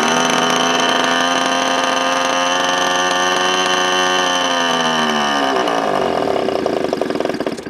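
OS .46AX two-stroke glow engine running at a steady pitch, then slowing with a falling pitch and sputtering from about five seconds in before it cuts out near the end. The owner thinks it might need more fuel or be a little gummed up after years unused.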